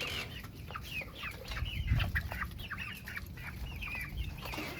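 A flock of chickens, young growing birds among them, calling: many short, high, falling peeps and clucks in quick, overlapping succession. There is a brief low rumble about two seconds in.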